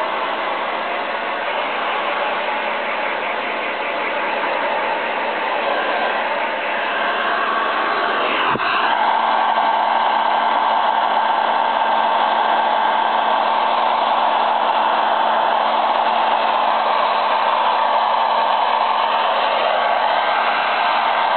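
Handheld hair dryer blowing steadily. About eight and a half seconds in there is a brief knock, and the dryer gets a little louder.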